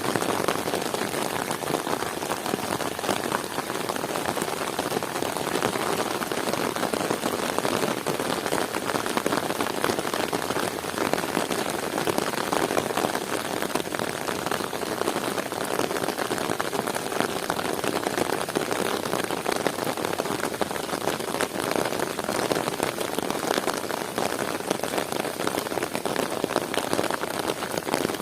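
Heavy rain falling steadily, a dense even patter of raindrops on the ground and plants.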